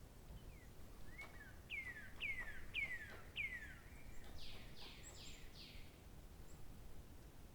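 A songbird singing: four clear whistled notes, each sliding down in pitch, a little over half a second apart, then a quicker run of four higher notes about halfway through.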